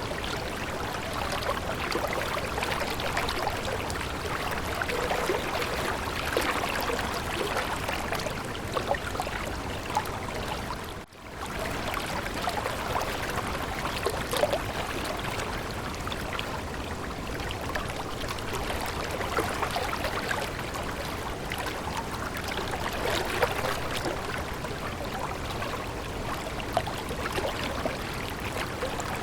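Stream water babbling and trickling: a steady rush with many small splashes, broken by a brief dropout about eleven seconds in.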